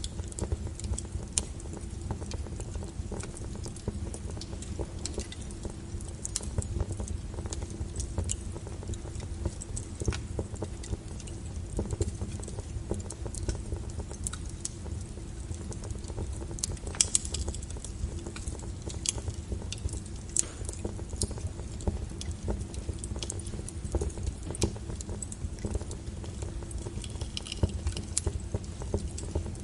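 Wood fire burning in a fireplace: irregular crackles and pops of the burning logs over a low steady rumble, with a louder flurry of pops about seventeen seconds in.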